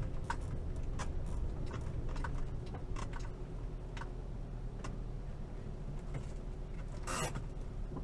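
A 1973 VW T2 bus's air-cooled flat-four engine running at low speed, a steady low rumble, with scattered irregular clicks and rattles and a short hiss about seven seconds in.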